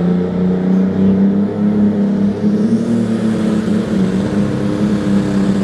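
Engine of a Limited Super Stock pulling tractor running flat out under load as it drags the weight-transfer sled, a loud steady drone that holds its pitch.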